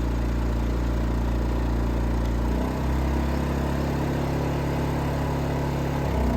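Predator 2500 inverter generator running quietly in economy-throttle mode, a steady small-engine hum. The engine note shifts about two and a half seconds in and again near the end.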